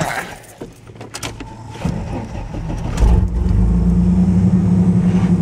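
Chevy 4x4 pickup's engine, after a few light clicks, rising from about two seconds in and running loud and steady at raised revs from about three seconds in, the truck straining but not moving.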